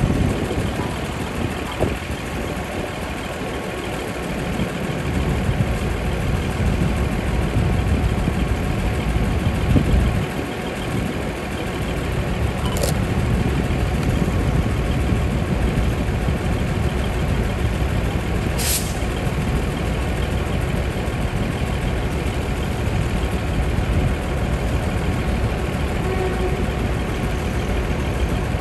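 Diesel engines of a DR2100-series diesel railcar set running steadily, with two short hisses of compressed air, one about halfway through and another some six seconds later.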